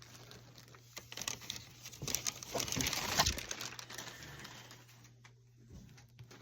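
Crinkling and rustling of packaging as figures are handled and pulled from a box, with small clicks; loudest from about two to three and a half seconds in.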